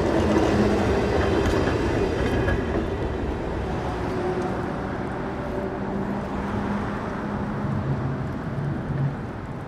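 Perley Thomas streetcar running along its rails, with a few clicks from the wheels on the track near the start. The sound slowly fades as it moves away.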